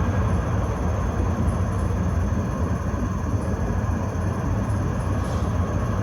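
Tram in motion: a steady low rumble of the wheels running on the rails.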